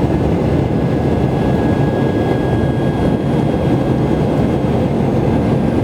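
Steady rumble of an airliner's engines and airflow heard from inside the passenger cabin, with a faint steady whine over it.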